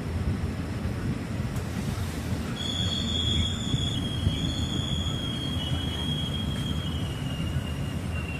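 Indian Railways passenger train running with a steady low rumble. About two and a half seconds in, the wheels start a thin, high-pitched squeal that slowly drops in pitch and keeps going.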